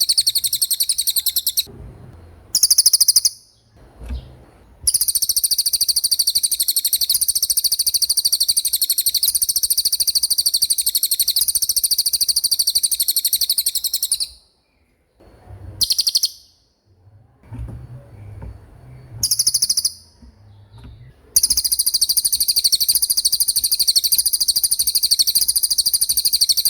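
A cililin songbird singing its fast rolling song: a very high, rapid trill held unbroken for several seconds at a time, with short bursts of the same trill between the long rolls.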